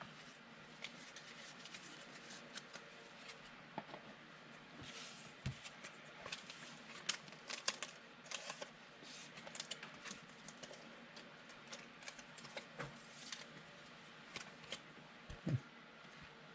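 Trading cards being handled: faint, irregular clicks and soft rustles of card stock being flipped through and shuffled, with a couple of dull knocks.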